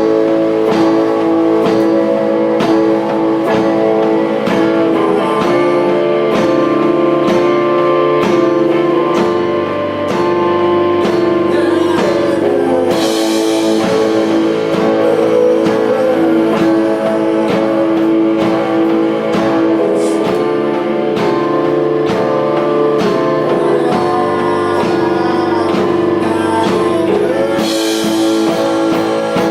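Rock band playing live: guitars over a drum kit's steady beat, with the cymbals growing louder about halfway through and again near the end.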